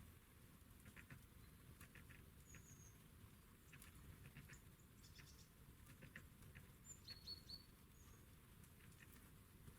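Faint small songbirds chirping a few times, with three quick high chirps about seven seconds in, over scattered soft clicks and ticks.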